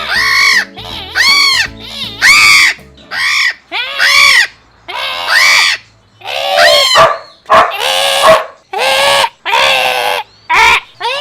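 Parrot squawking: about a dozen loud calls in a row, each about half a second long and rising then falling in pitch, with short gaps between them.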